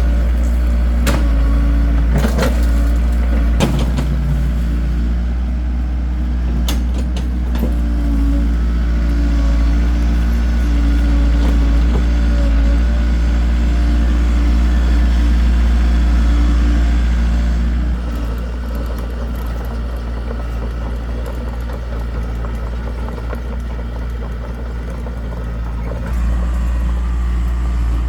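Excavator engine running steadily with a deep hum, with a few sharp knocks in the first several seconds. It drops in level about two-thirds of the way through and comes back up near the end.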